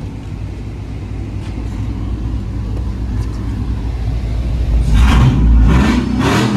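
LS V8 in an OBS Chevy truck running through a Carven muffler and dual tips: a low, steady rumble at idle, then a few quick revs about five seconds in.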